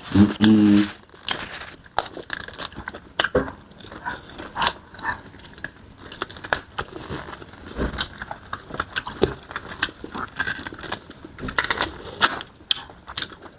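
Close-up eating sounds of tough smoked chicken being bitten and chewed, with irregular clicks and crunches.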